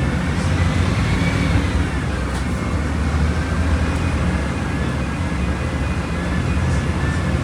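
Volkswagen Volksbus 17.230 Euro 6 bus engine running under way as a steady low drone, with a faint higher whine that rises and falls about a second in.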